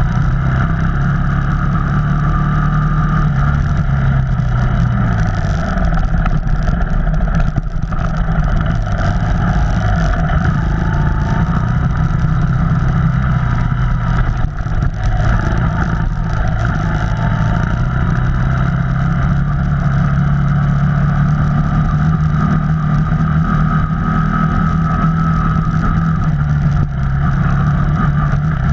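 Off-road vehicle engine running under changing throttle, its pitch dipping and rising, over a continuous low rumble.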